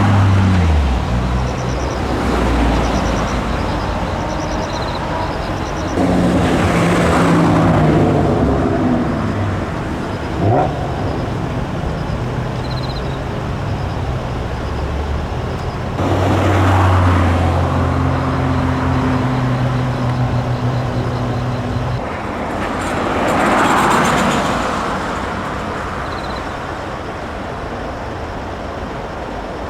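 Cars driving past one after another, each engine note swelling and fading, with steady engine hum in between. A short sharp click comes about ten seconds in.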